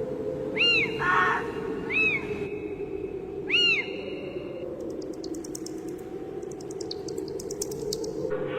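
Spooky sound-effects ambience: a steady low drone with short animal cries over it, three quick arching high calls and a briefer call in the first four seconds. Faint rapid high clicking follows in the second half.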